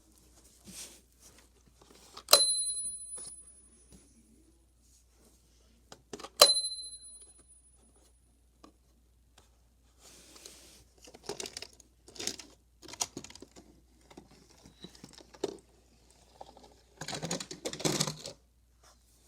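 Die-cast toy cars handled on a plastic Hot Wheels playset: two sharp metallic clinks that ring on briefly, then a run of light clicking and clattering, busiest near the end.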